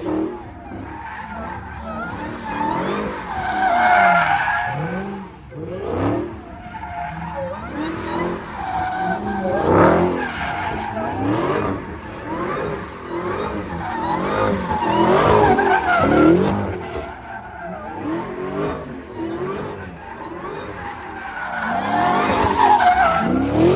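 Tyres squealing from wheelspin while engines rev up and down, in repeated swells.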